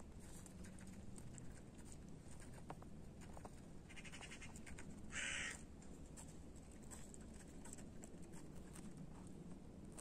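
Two short, harsh bird calls, caw-like, about four and five seconds in, the second one louder.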